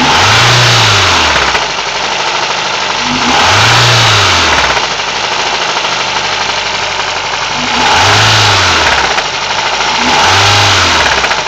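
Alfa Romeo 156's four-cylinder Twin Spark engine idling and blipped four times, each rev rising and falling over about a second and a half, with a knocking noise through it that the owner tags as a cam knock.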